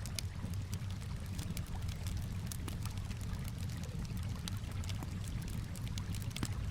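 Campfire crackling, with many small sharp pops scattered irregularly over a steady low rumble, mixed with the sound of calm water.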